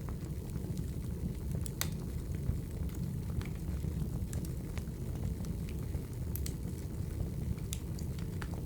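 Log fire burning in a fireplace: a steady low rumble with sparse sharp crackles and pops, about one a second.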